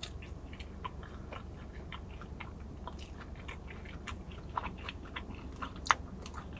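A person chewing a mouthful of fried chicken sandwich with the mouth close to the microphone: many small irregular clicks and smacks, with one sharper click near the end.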